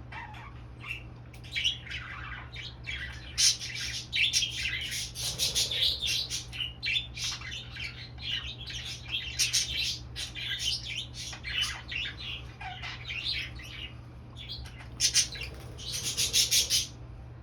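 Male budgerigar chattering and warbling in rapid, high chirps and squawks, the excited warble of a sexually aroused male. A louder run of squawks comes near the end, and the calls stop just before the end.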